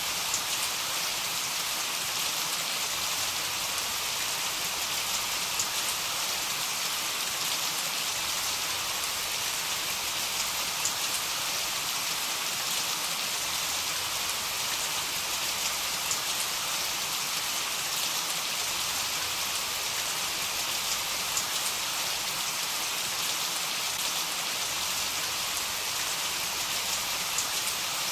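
Heavy rain falling steadily: a dense, even hiss with single drop impacts now and then.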